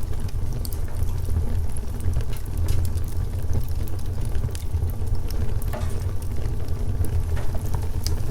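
Wood fire crackling, with small sharp pops and snaps scattered irregularly over a steady low rumble.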